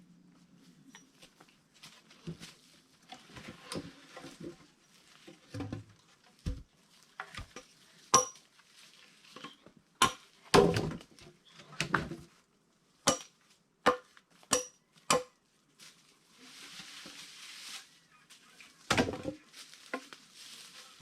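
Irregular sharp, ringing knocks of an axe striking logs, some single and some in quick runs, with a scraping noise for a second or two near the end.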